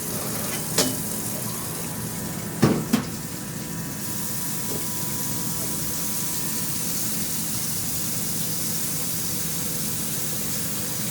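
Water running steadily, as from a tap or hose flushing a drain, with a few sharp knocks in the first three seconds.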